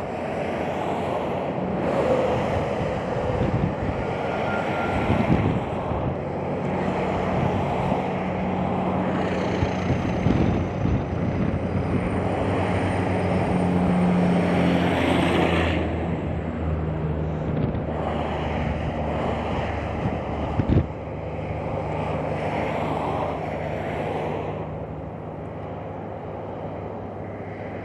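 Interstate traffic passing below an overpass: a steady wash of tyre and engine noise that swells and fades as vehicles go by, loudest with a steady engine hum about halfway through. Strong wind buffets the microphone with a few low thumps.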